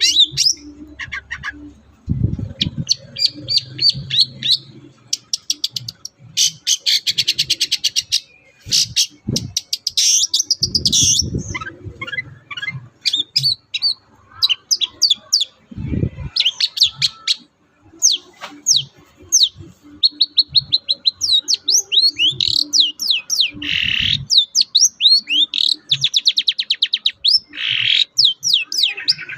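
Long-tailed shrike (cendet) singing a busy, varied song of rapid trills, harsh buzzy chatters and quick sweeping whistles, with a few low thumps in between.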